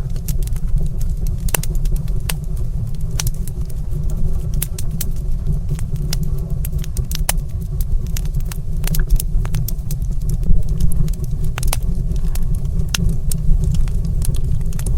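Wood fire crackling in a fireplace: frequent sharp, irregular pops and snaps over a steady low rumble of burning.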